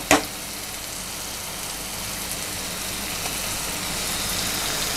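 Onion-tomato masala frying in a pan: a steady sizzling hiss that grows slightly louder toward the end. A single light click, likely the spoon against the pan, comes right at the start.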